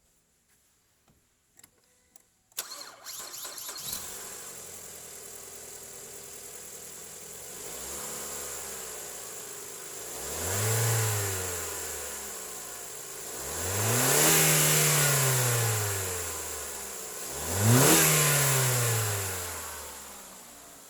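2015 Ford Fusion engine cranking and starting about two and a half seconds in after a few faint clicks, settling to a steady idle, then revved three times, each rev rising and falling in pitch, the last one climbing fastest.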